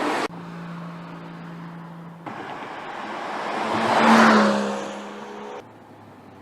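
BMW M760Li's twin-turbo V12 driving past: the engine and exhaust swell to a peak about four seconds in, then fade as the pitch drops. Before that there is a steady engine drone, and the sound changes abruptly between shots.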